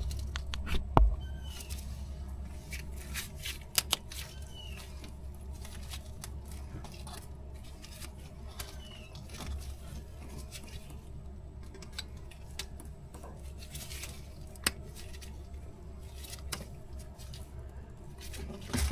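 A rubber fuel hose being cut to length: scattered clicks and snips over a steady low hum.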